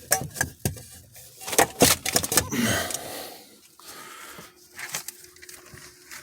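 Several sharp knocks and clicks over the first two and a half seconds, like things being bumped and handled, then quieter with a faint steady hum near the end.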